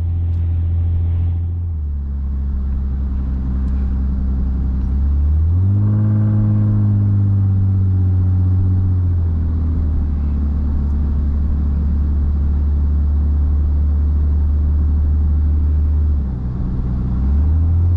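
Lexus IS250's 2.5-litre V6 heard from inside the cabin with road rumble while driving, a steady low drone. About five seconds in the revs rise and hold for a few seconds, then ease back, with a brief dip near the end.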